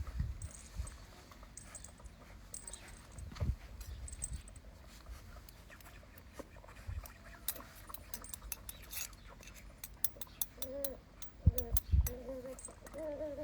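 Doberman puppies whimpering in several short, wavering squeaks in the last few seconds, after a stretch of scattered small clicks and rustling.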